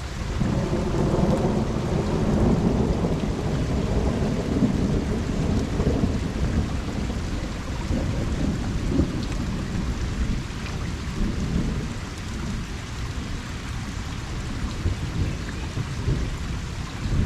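Steady rain pattering, with a long low rumble of distant thunder that builds about half a second in and slowly fades over the following seconds.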